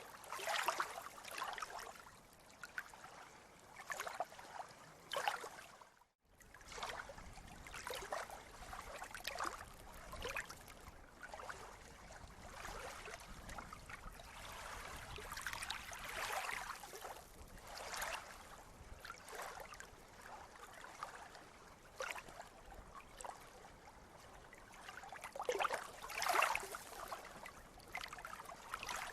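Sea water lapping and splashing at the shore in small, irregular surges, with a brief break in the sound about six seconds in.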